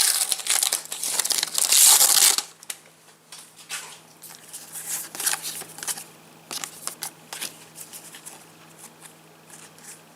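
A foil Match Attax trading-card packet being torn open and crinkled, loud for the first two seconds or so, then giving way to quieter scattered rustles and clicks.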